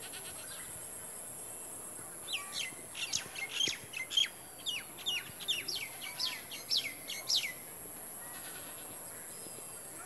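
A bird calling: a rapid run of sharp, steeply downward-sweeping notes, about four a second, starting about two seconds in and stopping about five seconds later. A steady high-pitched hiss runs underneath.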